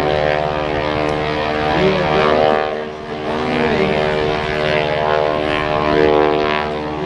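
Propeller-driven aerobatic biplane's engine running steadily, its note rising and falling several times as it manoeuvres, with a brief dip in loudness about three seconds in.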